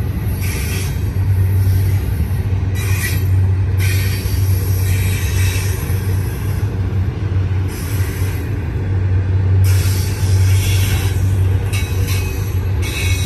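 Double-stack container train's railcars rolling past in a steady low rumble. Patches of high-pitched wheel-on-rail noise come and go every second or two.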